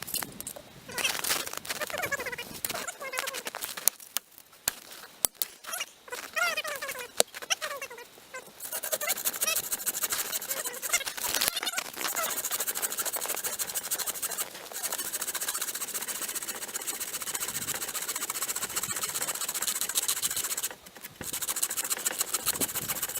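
A few short squeaky cries, then a steady rasping from about eight seconds in to near the end: a hand saw cutting through a dead tree.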